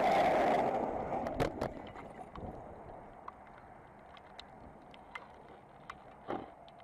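A vehicle crash: a loud scraping rush with a couple of sharp knocks in the first two seconds, dying away to a faint background with scattered small ticks.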